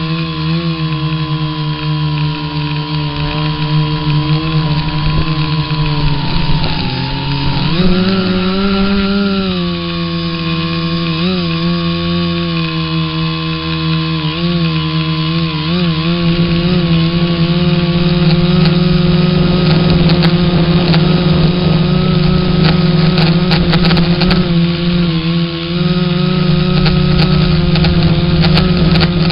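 A small engine running steadily, its pitch sagging and then rising again about seven or eight seconds in, with a few sharp clicks in the later part.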